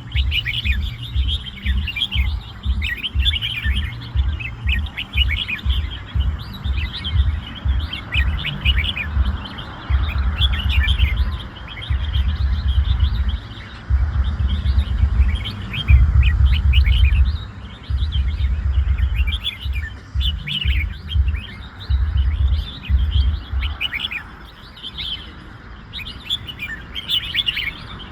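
Caged red-whiskered bulbuls singing: many short, quick chirpy phrases, one after another. Under them a loud low rumbling comes and goes, stopping about 24 seconds in.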